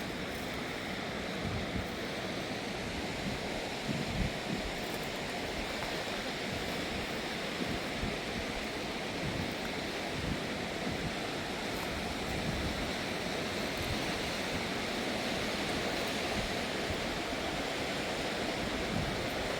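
Fast-flowing river water rushing steadily, with irregular low rumbles underneath.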